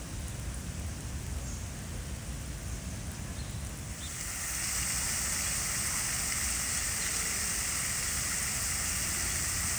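Steady rain falling on a wet paved walkway and trees. About four seconds in the sound turns louder and hissier as the splashing of a tiered fountain's water falling into its basin joins the rain.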